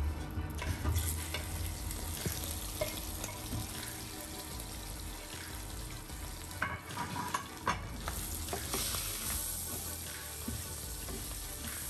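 Whole prawns sizzling in hot oil in a frying pan, with a few clicks and scrapes of a slotted spatula turning them about two-thirds of the way through. The sizzle grows louder near the end.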